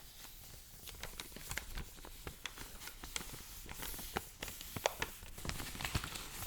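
Paper handled close to the microphone: many small, sharp crackles and ticks, busier and louder in the second half.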